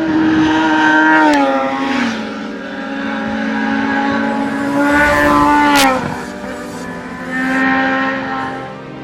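High-revving motorcycle engines passing at speed, their pitch dropping sharply as each goes by, twice, with another bike coming up near the end.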